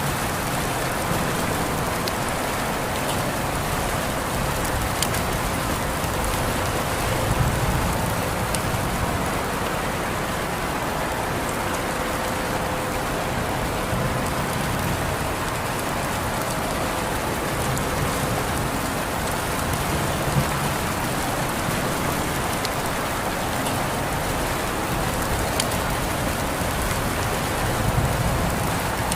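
Steady rain falling on surfaces, a dense even hiss with scattered individual drop ticks.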